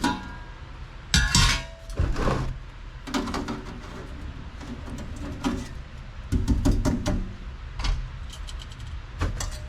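Metal objects clinking and clattering as tools and parts are rummaged through on a workbench, with one ringing metallic clank about a second in. A low steady hum runs underneath.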